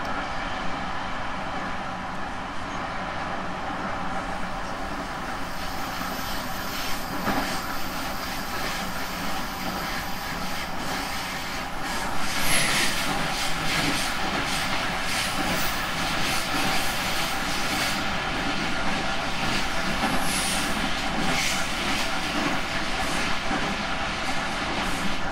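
Running sound of a JR Central 311 series electric train heard on board, a steady rumble with the wheels clicking over rail joints. It grows louder about halfway through.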